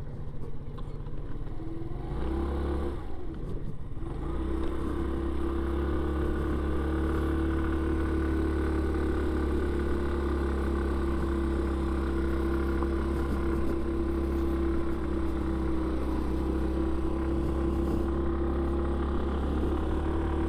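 Yamaha Vino 125 scooter's single-cylinder four-stroke engine pulling away and speeding up over the first few seconds, then running at a steady, even note as the scooter cruises.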